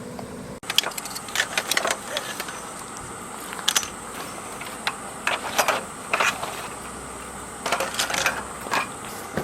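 Irregular light clinks and knocks of small objects being handled, starting about half a second in and scattered through, over a steady faint high hiss.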